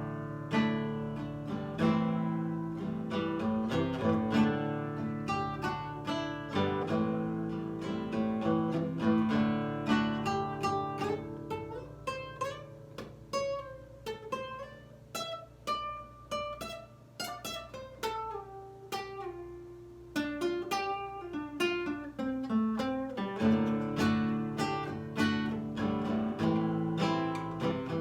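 Lyle nylon-string guitar played fingerstyle: plucked melody notes over held bass notes. It grows softer about halfway through, with a run of notes falling in pitch, then returns to fuller, louder playing near the end.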